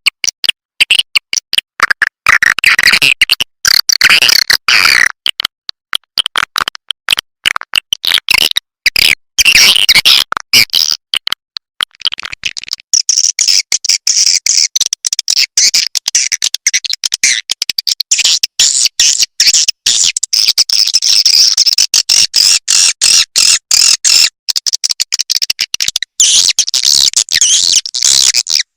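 Swiftlet calling track, the kind played to lure swiftlets into a nest house: dense, rapid, choppy twittering chirps in quick bursts. About halfway through they turn higher and thinner.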